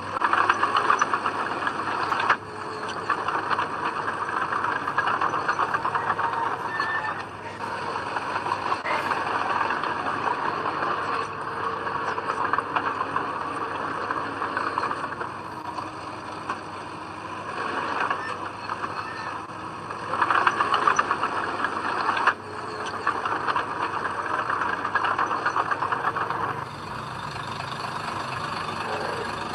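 Diesel engines of heavy earthmoving machinery running steadily under load, with the level dropping and jumping abruptly several times.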